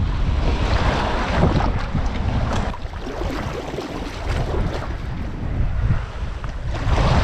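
Wind buffeting the microphone in a steady low rumble, over water splashing around a sea kayak, with louder surges of splashing about a second in and near the end.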